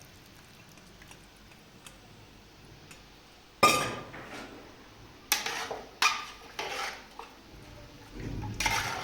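After a quiet start, a few sharp clattering knocks, about four spread over three seconds, then a short rushing noise near the end.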